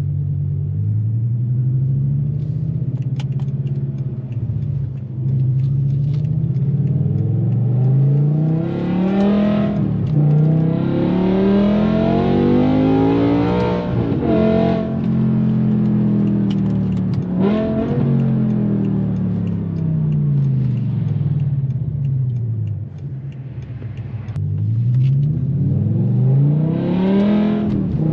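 BMW M6's 5.0-litre V10 running through a straight-piped Fi exhaust, loud, revving up and dropping back several times as the pitch climbs and falls.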